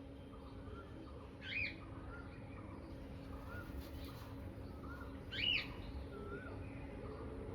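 Bird calls: two loud, quick rising chirps, about a second and a half in and again about five and a half seconds in, over softer short chirps repeating throughout.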